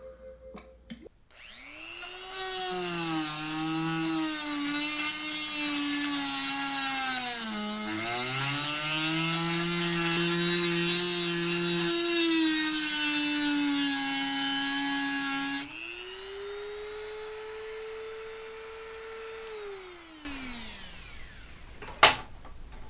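Hand-held rotary tool with a small abrasive cutoff wheel cutting metal on a Model T engine fan, running at a high whine. Its pitch dips and recovers as the wheel bears in about a third of the way through. Near the end the cut lets up and the tool runs free, then is switched off and spins down in a falling whine, followed by a sharp click.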